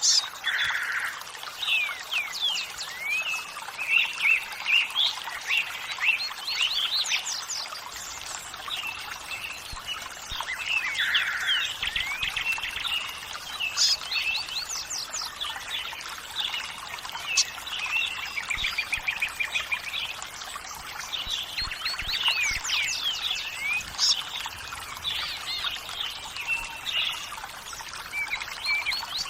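Several songbirds chirping and twittering in quick, overlapping calls over the steady rush of running water.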